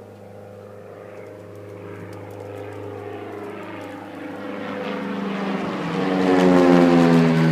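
Commander 112A single-engine propeller plane flying low overhead: its engine and propeller drone grows steadily louder, peaks near the end as the plane passes, and starts to drop in pitch.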